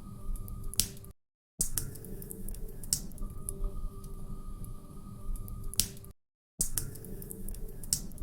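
Log fire crackling steadily, with sharp pops now and then. The sound cuts out completely for about half a second twice, about a second in and about six seconds in.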